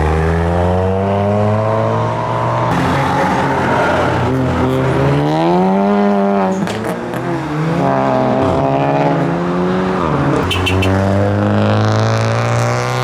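Engines of modified cars revving and accelerating as they pull away, their pitch rising and falling several times, with two engines heard at once around the middle.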